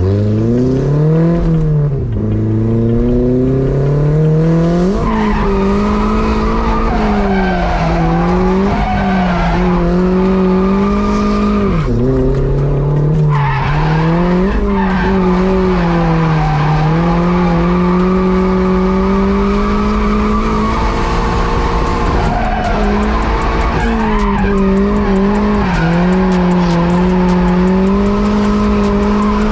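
Turbocharged Mazda Miata four-cylinder engine heard from inside the cabin, its revs rising and falling again and again as the car is driven through drifts, with the tires squealing and skidding.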